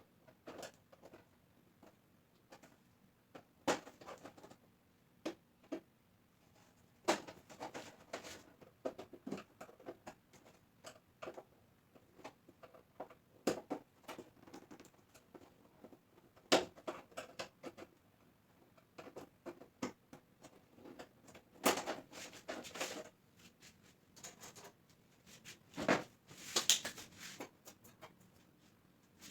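Irregular small clicks, taps and scrapes of hands handling tools and parts, coming in scattered clusters with a few louder clatters.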